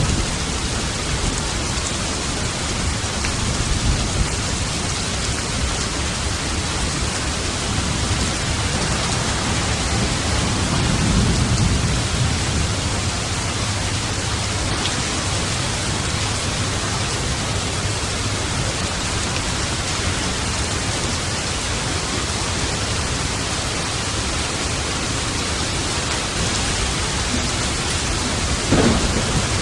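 Steady heavy rain with low rolls of thunder, one swelling about a third of the way in, and a short sharp thunder crack near the end.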